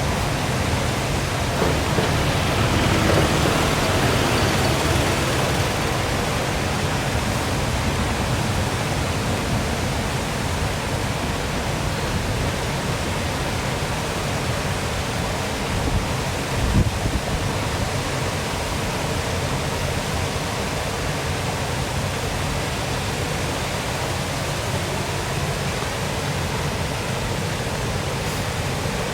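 Waterfall rushing steadily, a dense even hiss over a low rumble, swelling slightly a few seconds in. A brief low thump about halfway through.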